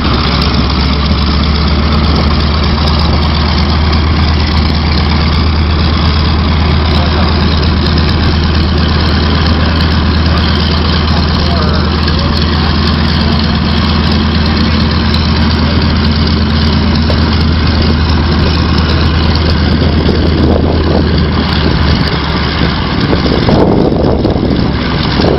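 An engine idling steadily, a low even hum, which changes briefly about 22 seconds in.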